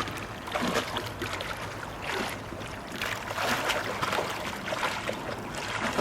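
Water swishing and splashing beside a kayak as the paddler sculls with his hands for support, sweeping them back and forth over the surface in repeated, irregular strokes.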